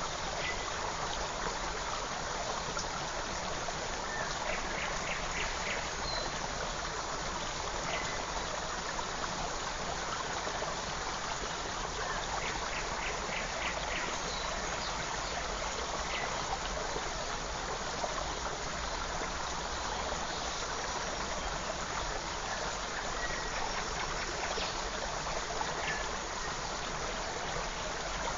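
Creek water flowing steadily, with small birds calling now and then over it. About five seconds in and again about twelve seconds in, a bird gives a short rapid trill of repeated notes.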